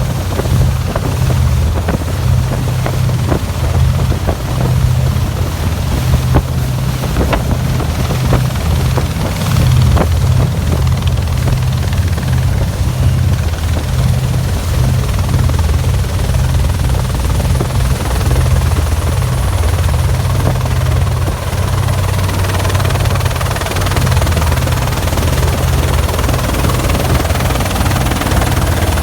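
Helicopter rotor beat mixed with the low drone of motorboat engines, a steady pulsing rumble throughout. A rushing hiss grows louder after about twenty seconds.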